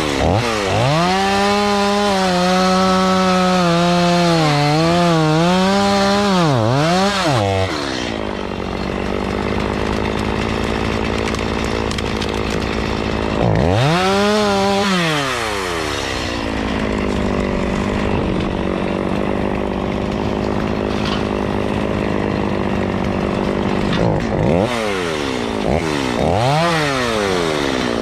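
Two-stroke chainsaw running at high revs and cutting wood. Its pitch sags and recovers as it bogs under load during three spells of cutting, and it runs steadily at speed in between.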